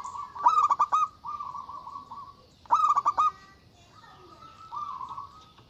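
Zebra dove (perkutut) cooing: two runs of quick stuttering coos, each trailing into a longer rolling coo.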